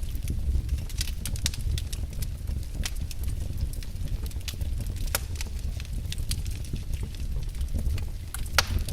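Wood fire burning in a fireplace: logs crackling with irregular sharp snaps over a low steady rumble of the flames, with one louder pop near the end.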